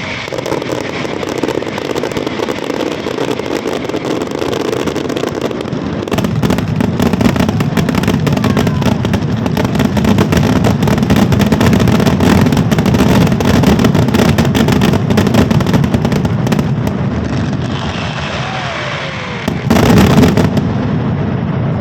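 Fireworks display: a rapid, continuous barrage of bangs and crackling that grows heavier about six seconds in, with one louder burst near the end.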